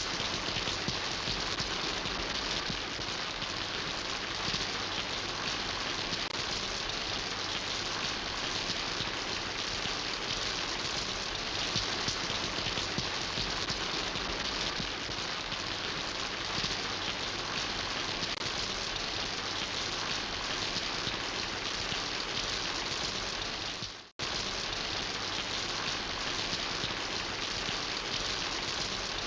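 Steady rain falling, an even hiss full of fine drop patter. It dips and drops out for an instant about five seconds before the end, then comes straight back.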